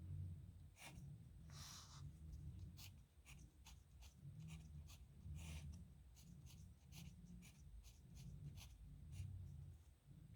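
Metal nib pen scratching across paper in many short, irregular strokes as handwriting is written, faint over a low steady rumble.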